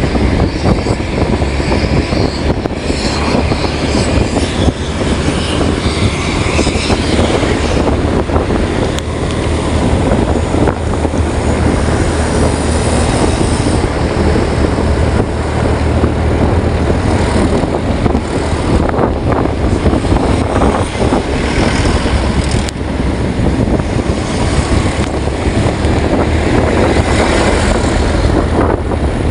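A steady engine drone, with a constant rushing noise over it and no break.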